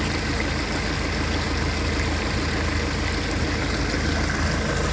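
JCB 4CX backhoe loader's diesel engine idling steadily.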